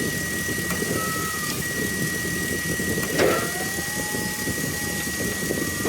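Chevy 2500 HD pickup engine idling steadily, with a thin, steady high whine over it and one sharp knock about three seconds in, while the Meyer plow on the truck is being worked.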